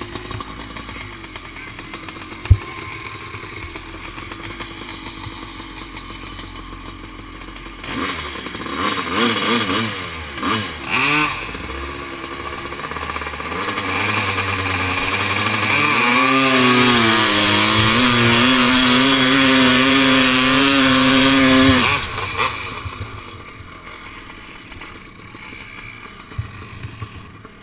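Kawasaki KX500 two-stroke single-cylinder motorcycle engine running, with a sharp knock a couple of seconds in. It is blipped several times about eight seconds in, then revved hard and held loud for about six seconds, its pitch wavering, before the throttle is shut abruptly and it drops back to a lower steady run.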